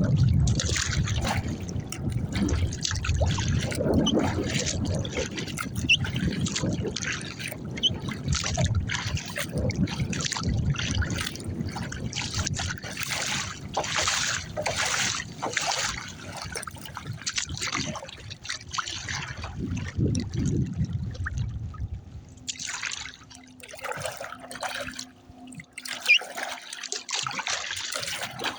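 Kayak paddle strokes on open water: rhythmic splashes with water trickling and dripping off the paddle blades. A low wind rumble lies under it for most of the time and drops away near the end.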